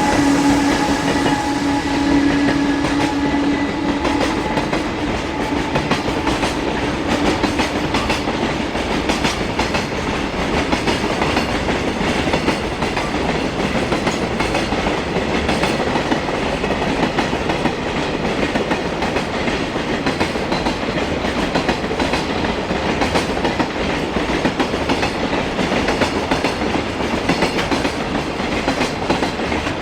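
Long container freight train passing close by: the wagons' wheels clatter over rail joints in a steady, rapid clickety-clack. A humming tone dies away in the first few seconds.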